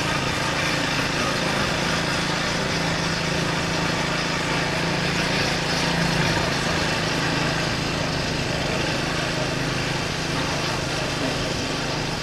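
Triumph Speed 400's single-cylinder engine running at a steady speed on the move, under a steady rushing noise.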